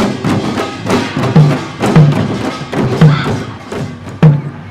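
Korean pungmul percussion playing: deep drum strokes land about every half second to a second, with sharp stick clicks between them.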